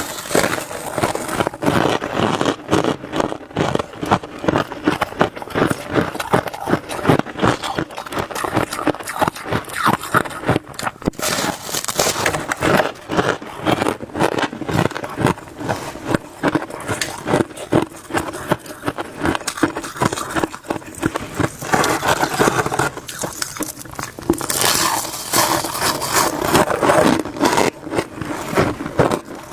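A spoon scraping crunchy frost in quick, continuous, irregular strokes, with brief crackly crunches.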